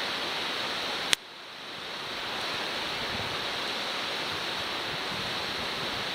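Food sizzling steadily in a forged-iron frying pan, with a single sharp click about a second in.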